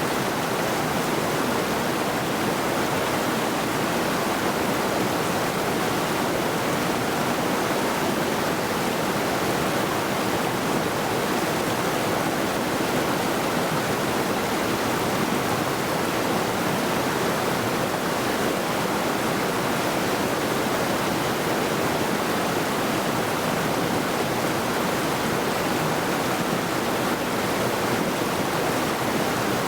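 The Middle Saluda River rushing over rocks: a steady, unbroken rush of flowing water.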